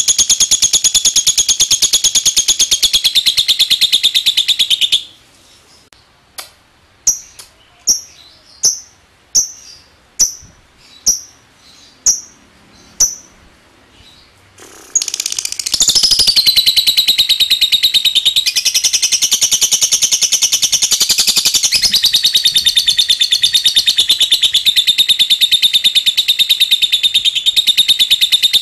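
Lovebird chattering in a long, very rapid high-pitched trill (the 'ngekek'). About five seconds in it breaks off into some ten short separate chirps, roughly one a second. It then goes back into a long unbroken trill.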